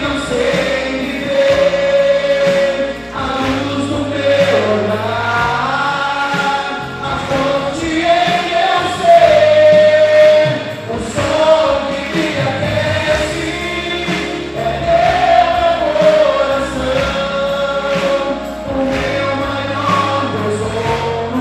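Gospel worship song: a choir of voices singing long held notes over a steady instrumental backing.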